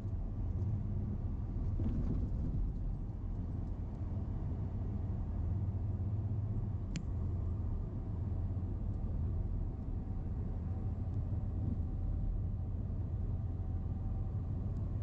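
Steady low rumble on an outdoor field recording, with one sharp click about seven seconds in.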